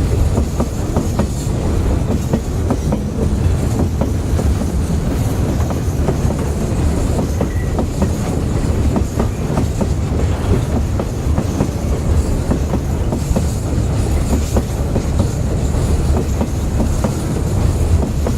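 Railway wagons rolling along steadily: a continuous low rumble with the clickety-clack of wheels over rail joints and small knocks and clanks.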